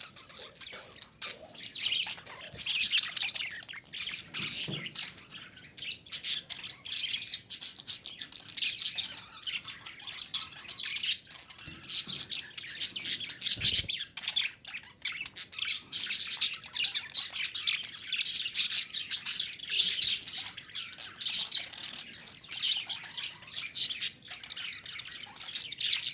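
Female budgerigar chattering, a fast, unbroken run of high chirps and warbles.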